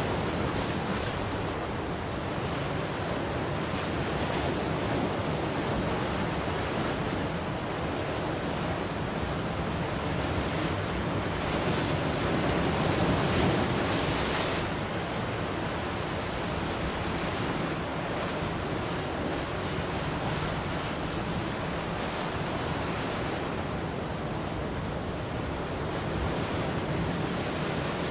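Ocean surf: waves breaking and washing ashore in a continuous rush that swells and eases, with one louder, brighter breaker about halfway through.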